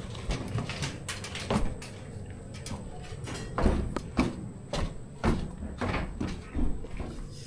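A series of short, dull knocks about every half second to second, uneven in loudness, over a low rumble.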